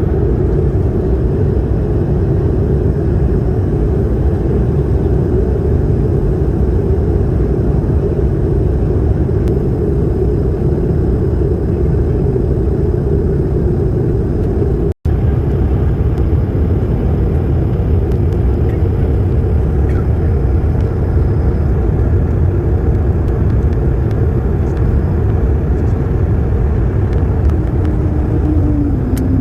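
Steady engine and airflow noise inside the cabin of a Korean Air jet airliner during its landing, a low, even rumble that cuts out for an instant about halfway through.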